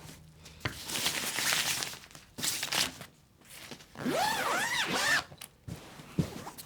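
Rustling and crinkling of material being handled, in two bursts, followed about four seconds in by a squeaky sliding sound that rises and falls in pitch, and a few soft knocks near the end.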